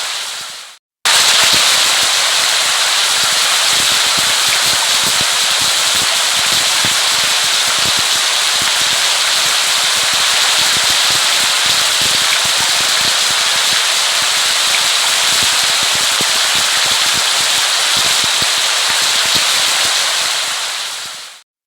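Steady rain, a dense patter of many small drops on a surface. It fades out to silence within the first second, starts again abruptly, and runs evenly until it fades out again near the end.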